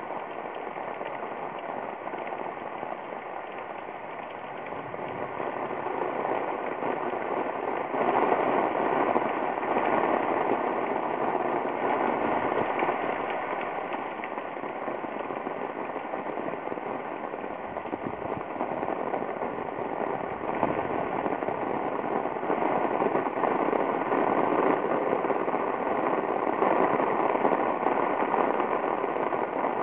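Heavy rain pouring down: a dense, steady hiss that swells louder about six to eight seconds in and stays heavy, rising and falling slightly.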